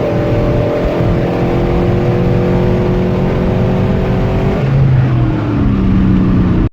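Cammed Chevrolet 5.3-litre V8 with an aftermarket intake and exhaust, running loud at a fairly steady engine speed. The note changes about four and a half seconds in, and the revs fall near the end.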